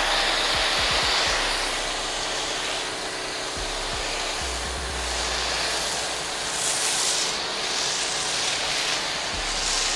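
Pressure washer spraying: a steady, loud hiss of water jet and pump noise that stops abruptly.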